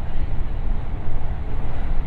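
Steady rumble of a JR West 521 series electric train running at speed through a tunnel, heard inside the passenger car: wheels on rails and enclosed tunnel roar, heavy in the low end.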